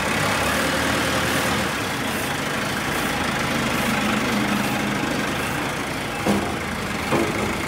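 A workshop machine's motor running steadily, with two short knocks near the end.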